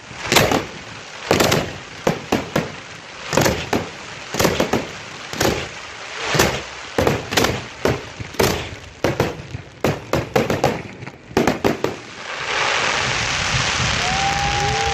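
Fireworks display: aerial shells bursting in quick succession, sharp bangs about one to two a second, which stop about twelve seconds in. A crowd then cheers and applauds, with whistling near the end.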